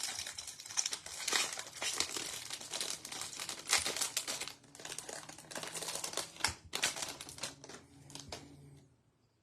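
Baseball card pack wrappers being torn open and crinkled by hand: a dense run of crackling that stops near the end.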